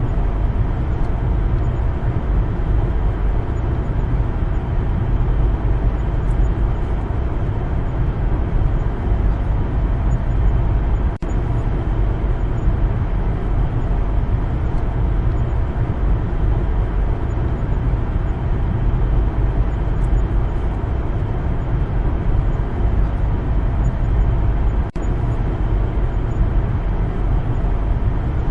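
Steady low rumble of a car driving along a road: engine and tyre noise. The sound briefly cuts out twice, once near the middle and once near the end.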